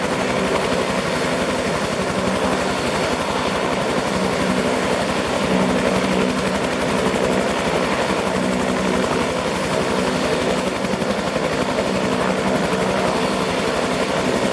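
Bell 222 twin-turboshaft helicopter, with two Rolls-Royce 250-C30G engines, running steadily: a fast, even rotor beat over a constant engine tone.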